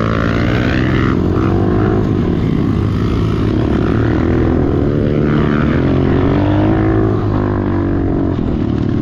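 Small pit bike engine being ridden hard, its pitch rising and falling repeatedly with the throttle.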